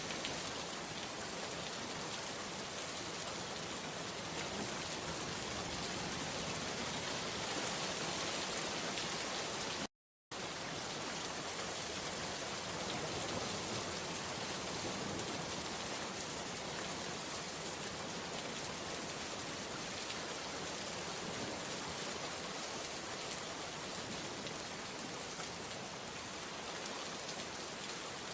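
Steady rain falling, an even dense hiss of drops. About ten seconds in the sound cuts out completely for a split second, then resumes unchanged.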